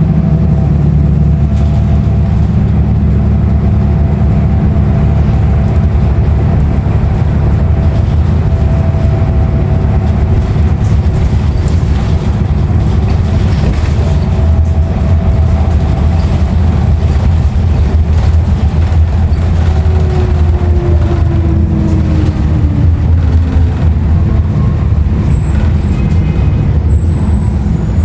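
Interior running noise of a 2016 Nova Bus LFS under way, its Cummins ISL9 diesel and ZF six-speed automatic transmission giving a loud, steady low drone with a faint whine. About twenty seconds in, the whine falls in pitch over a few seconds, and faint rattles come in near the end.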